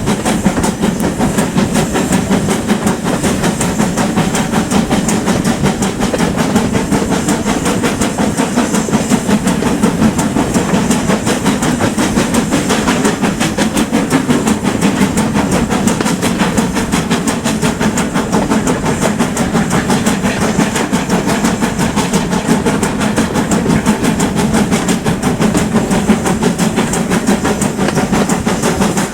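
Steam train, hauled by a GWR Manor-class locomotive, running at a steady pace: a continuous loud train noise with a fast, even beat, unchanged throughout.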